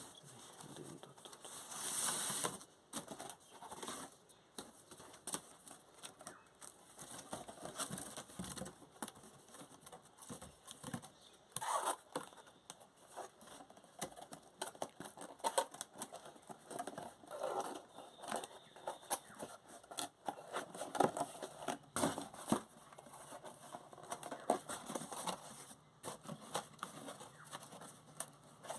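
Corrugated cardboard packing boxes being handled, with irregular rustling, scraping and tapping of cardboard throughout.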